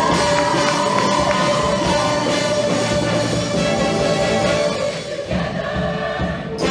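Show choir singing with instrumental accompaniment, the voices holding long sustained notes.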